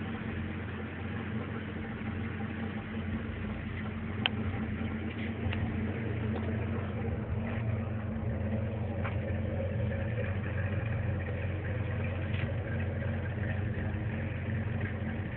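1990 Ford Mustang LX 5.0's V8 idling steadily, with a single sharp click about four seconds in.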